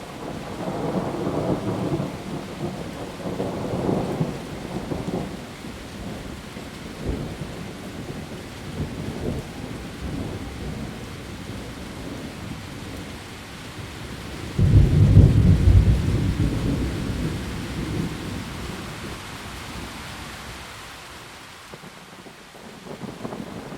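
Heavy rain falling steadily on leaves, with thunder rumbling in the first few seconds. About fifteen seconds in, a sudden loud thunderclap rolls away over several seconds.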